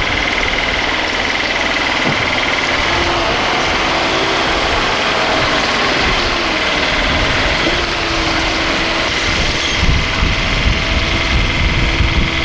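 An engine running steadily, with a steady whine above it. The low rumble grows stronger and more uneven in the last few seconds.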